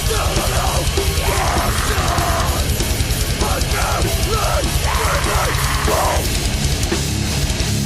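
Heavy metal band recording with no vocals: distorted electric guitars over a drum kit with rapid kick drumming, dense and loud throughout.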